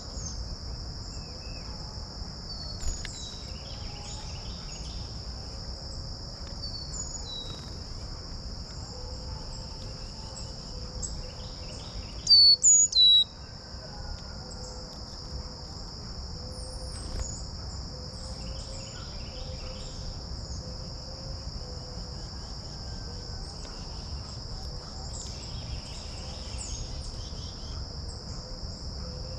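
Steady high-pitched insect chorus, with scattered bird chirps and calls over it. About twelve seconds in, a bird gives three loud, sharp chirps close by, the loudest sound.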